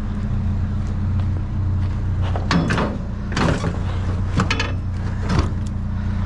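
Truck running, its steady engine and road hum heard inside the cab, with a few short sharp clicks and squeaks around the middle.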